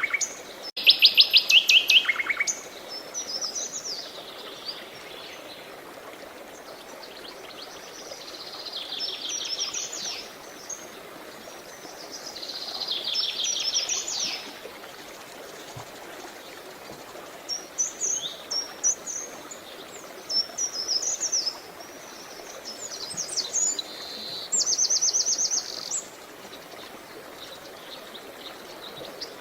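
Several songbirds singing, with loud rapid trills of evenly repeated high notes near the start and again near the end, and chirping phrases in between. Steady running water hisses beneath them throughout.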